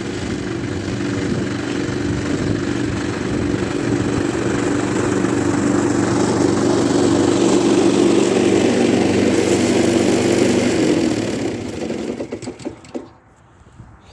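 Engine of an Efco LR ride-on lawn mower running steadily, growing a little louder through the middle, then dying away sharply near the end as it is shut off or moves off.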